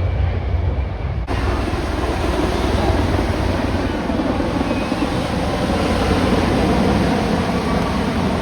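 Steady low engine drone that cuts off abruptly about a second in, replaced by a louder, even rushing of engine noise and wind.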